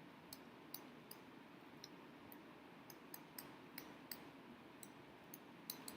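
Near silence: room tone with about a dozen faint, irregular clicks, most of them between about three and four seconds in and near the end.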